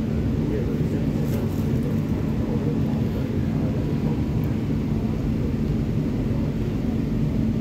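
MTR K-Train electric multiple unit running at speed, heard inside the carriage: a steady rumble of wheels and running gear with a steady low hum.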